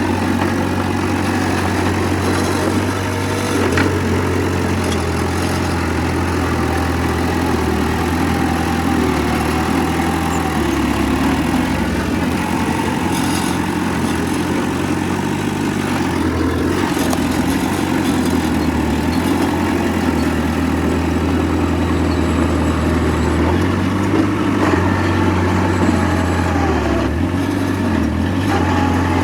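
Heavy diesel engine of earthmoving machinery running steadily, its low drone shifting in pitch and strength a few times.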